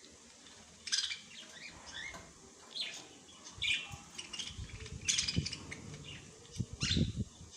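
Small birds chirping and tweeting in short, repeated calls, with a few soft low thumps in the second half.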